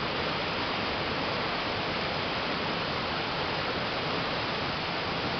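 Steady rushing of a river swollen by heavy rain: an even, unbroken wash of water noise.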